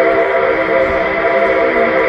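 Nickel Plate Road 765's steam whistle blowing one long, steady blast, several tones sounding together as a chord.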